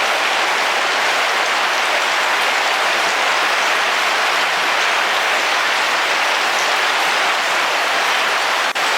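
Heavy rain falling on a car's roof: a steady, dense hiss of drops. It dips for an instant near the end.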